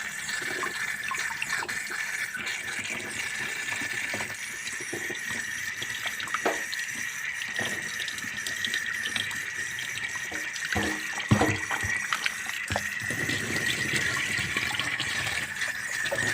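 Tap water running steadily into a sink, with scattered knocks and clatter of items being handled in it, more of them a little past the middle.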